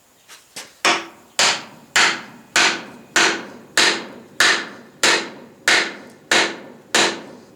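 Steady hammer blows on steel, about one every 0.6 s, each with a short metallic ring. It is a hammer driving the steel stake of a small home-made stake anvil, with a truck-axle head, down into a wooden block. Two light taps come first, then about a dozen full blows.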